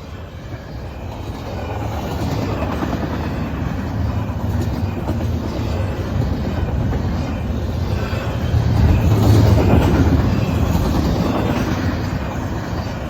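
A Norfolk Southern intermodal freight train passing fast, its wheels rumbling and clattering over the rails. The sound grows louder through the first seconds, is loudest about nine seconds in, then eases slightly.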